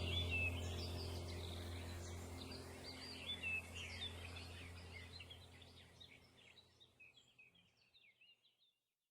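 Small birds chirping and twittering over a low steady hum, the whole recording fading out to silence over about six seconds.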